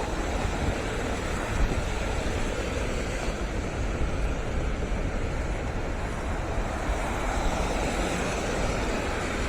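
Steady, unbroken roar of stormy wind and sea, with wind buffeting the microphone.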